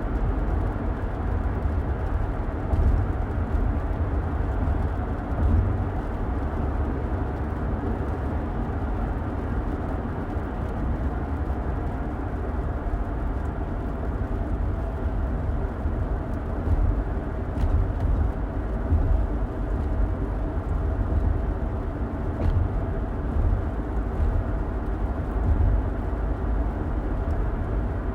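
Car interior road noise while driving: a steady low rumble of tyres and engine, with a faint hum underneath.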